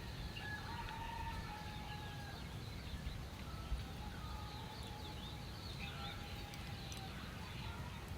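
Faint chickens calling in the distance, with small birds chirping, over a steady low rumble.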